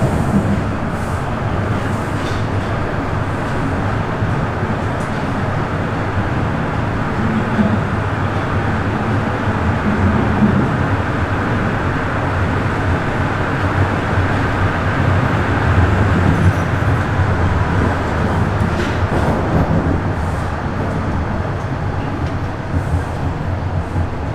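Bombardier Toronto Rocket subway train running between stations: steady running noise with a low rumble, heard from on board.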